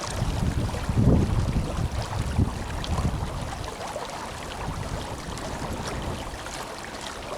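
The Tenryu River flowing with a strong current, a steady rushing of water. Low gusts of wind buffet the microphone about a second in and again near two and a half seconds in.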